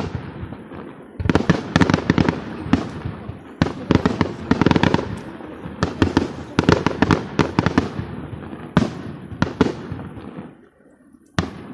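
Aerial fireworks shells bursting overhead in rapid clusters of bangs and crackles, with a short lull near the end before another bang.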